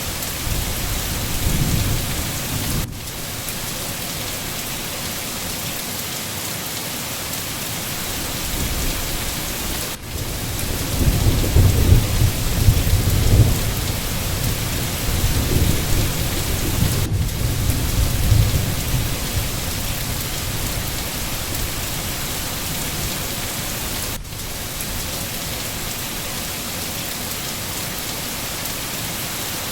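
Steady rain hissing with rolling thunder: a low rumble about two seconds in, and a longer, louder roll through the middle. Brief dips in the rain sound recur about every seven seconds, where the recording loops.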